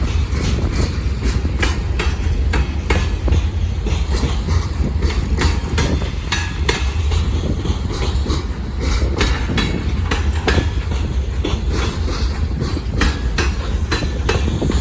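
Freight cars of a manifest train rolling past, a steady low rumble broken by many irregular clicks and clanks as the wheels pass over the rail joints.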